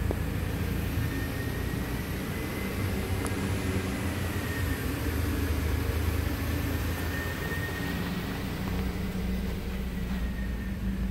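2007 Mitsubishi Outlander's 3.0-litre V6 idling steadily at about 1000 rpm, with a faint high whine above the low engine note.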